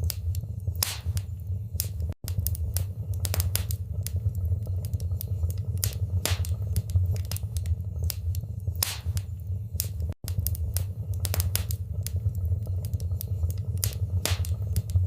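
Wood fire crackling in a fireplace: irregular sharp pops and snaps over a steady low rumble of the flames. The sound cuts out very briefly twice, about two seconds in and about ten seconds in.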